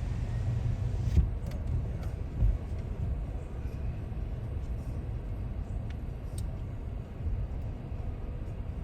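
Steady low road rumble of a car heard from inside the cabin while driving, with a few faint clicks.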